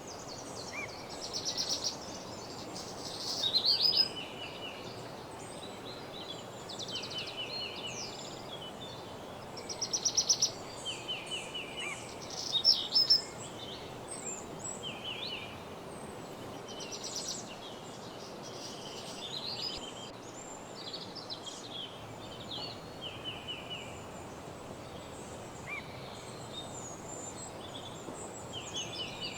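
Several songbirds singing in a morning chorus: short, quick trilled phrases, some with fast repeated notes, over a steady background hiss. The loudest phrases come about three to four seconds in and again around ten to thirteen seconds in.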